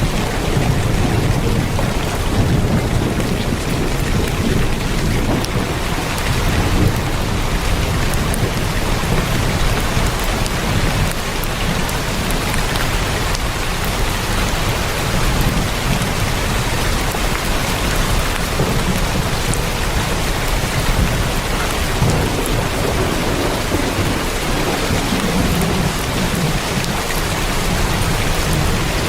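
Heavy rain falling steadily on a tin roof, a dense even hiss of drops, with low rumbles of thunder swelling in and out underneath.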